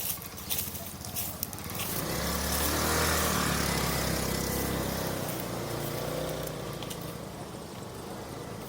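A motor vehicle passes close by: its engine and tyres grow louder about two seconds in, peak, then fade away over the next few seconds.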